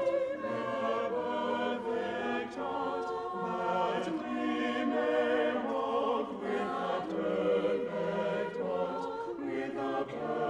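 Church choir singing a sacred choral anthem, many voices holding sustained chords that move from one to the next.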